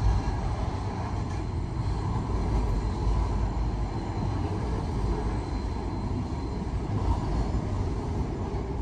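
TasRail freight train's log and container wagons rolling past, a steady rumble of wheels on rail.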